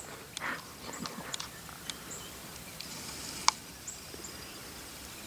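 Small birds giving short, high chip calls every second or so, with one sharp click about three and a half seconds in.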